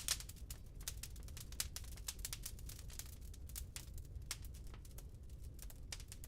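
Burning wood crackling in a fireplace: many irregular sharp pops and snaps, a loud one right at the start, over a steady low rumble of the fire.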